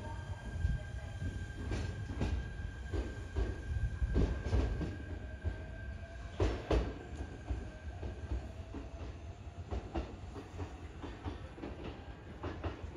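Shinano Railway electric train running on the rails, its wheels knocking over the rail joints over a low rumble, with a steady whine that fades out about eight seconds in.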